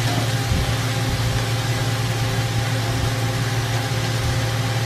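Chicken pieces with onion and garlic sautéing in a stainless steel frying pan, an even steady hiss, over a steady low motor-like hum.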